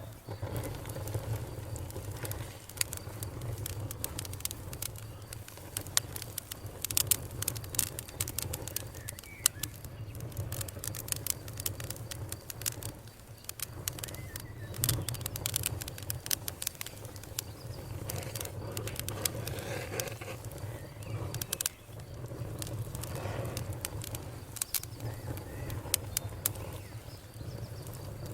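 Campfire burning, with sharp crackles and pops coming in irregular clusters over a steady low rumble.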